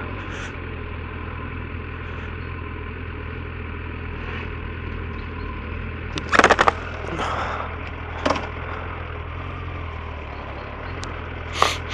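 Motorcycle engine running at low, steady revs, with wind noise on the microphone. A few short sharp knocks break in, the loudest about six seconds in, others around eight seconds and near the end.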